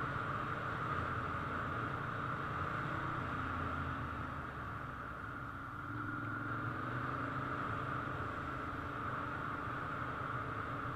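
Ducati motorcycle engines running, a steady mix of low engine hum and hiss that dips slightly around the middle.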